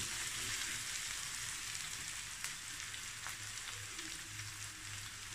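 Sliced onions, garlic and ginger frying in oil in a wok: a steady sizzle with a few small crackles.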